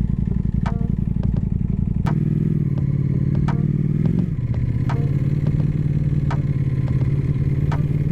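Ducati Panigale V4 S's V4 engine running under way, its note stepping up about two seconds in, climbing slightly, then dropping suddenly near the middle and holding steady. Faint regular ticks sound about every 0.7 s over it.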